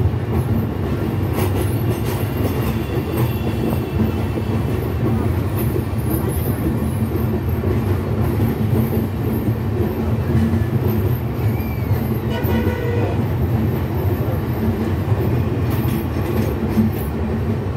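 Steady rumble and clatter of a Bangladesh Railway passenger train's coaches running on the rails, heard from aboard the moving train.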